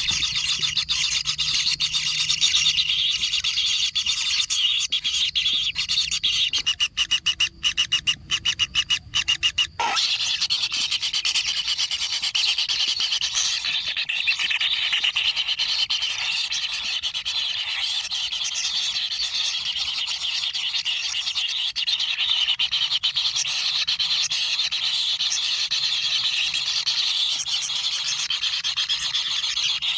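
Kingfisher nestlings calling in the nest, a continuous high buzzy chorus. About a third of the way in, the sound breaks up with several short dropouts before carrying on.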